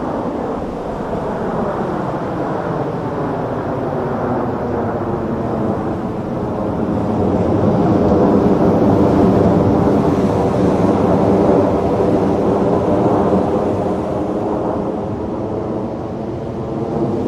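Fighter jet flying past: its engine noise swells to a peak about halfway through and then slowly fades, with the pitch sliding as it goes by.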